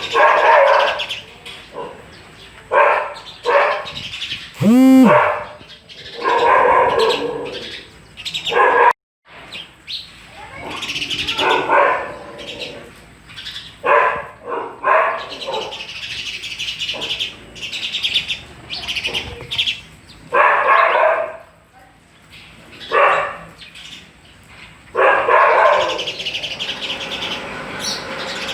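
Birds chirping and calling in a run of short, separate bursts, with a brief break about nine seconds in.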